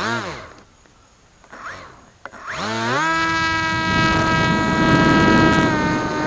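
Electric motor and propeller of an RC flying wing throttled up in two short blips, each rising and falling in pitch. About two seconds in it spins up to a steady high whine with a rush of propeller air, as for launch.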